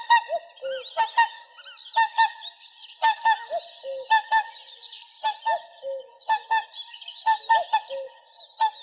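Whooper swans calling: repeated trumpeting honks, often in quick pairs, about one or two calls a second, with lower, shorter notes in between.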